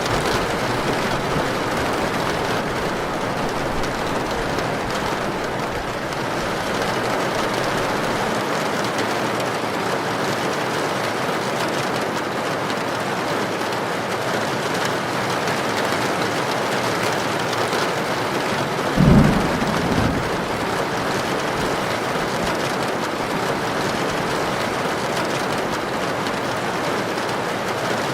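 Heavy rain pouring steadily in a storm with wind, an even hiss. About two-thirds of the way through comes a brief low thump, with a weaker one about a second after.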